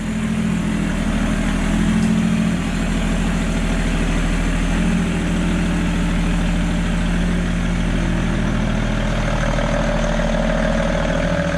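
BMW M57 straight-six turbo-diesel in a Toyota FJ75 Land Cruiser idling steadily, running on its first start-up after the engine swap.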